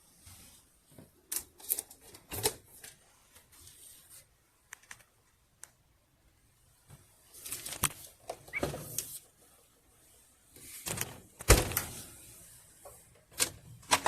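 Scattered clicks, knocks and short rustles of objects being handled, the loudest a sharp knock about eleven and a half seconds in.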